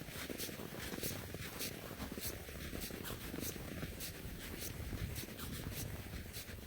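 Footsteps crunching through fresh snow at a steady walking pace, a little over two steps a second, over a low rumble.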